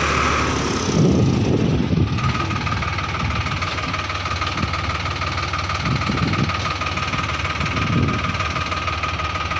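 Heavy diesel engines of tractors and a JCB backhoe running, with low surges of engine noise about a second in, two seconds in, and again near six and eight seconds, over a steady high whine.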